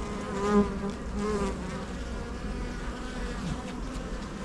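Honey bees buzzing around an open hive: a steady colony hum, with wavering buzzing tones clearest in the first second and a half.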